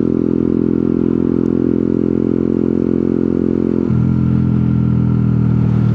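125cc motorcycle engine idling steadily while the bike waits in traffic; the note shifts slightly about four seconds in.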